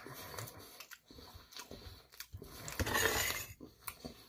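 Chewing food close to the microphone. About three seconds in comes a louder scrape as a metal fork scoops fried rice from a metal bowl.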